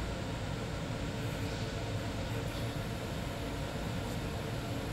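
SBB ICN (RABDe 500) tilting electric train running past at close range, a steady unbroken noise of wheels and traction equipment on the track.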